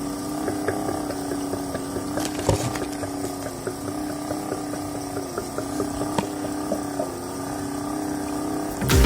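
Small electric motor of a homemade disk air washer humming steadily as it turns its disks through water, with frequent light clicks and drips.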